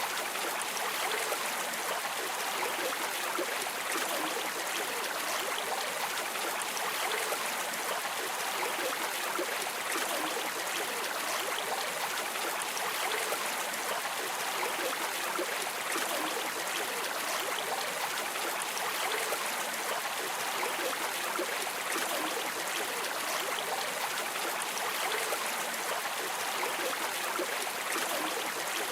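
River water streaming and rushing steadily, an even flowing noise without pauses.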